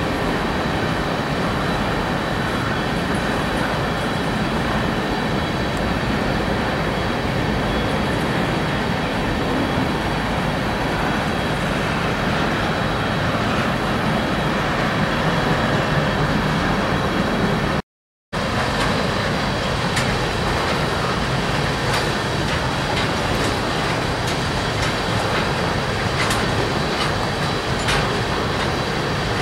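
BNSF freight train rolling past with a steady rumble of diesel locomotives and cars. After a brief dropout about two-thirds through, tank cars roll by close, their wheels clicking every second or two.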